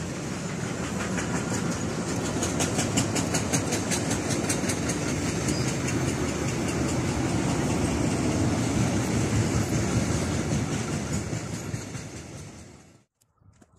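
Freight train of covered wagons rolling past: a steady rumble of wheels on rail with a rhythmic clatter of wheelsets. It fades after about twelve seconds and cuts off abruptly soon after.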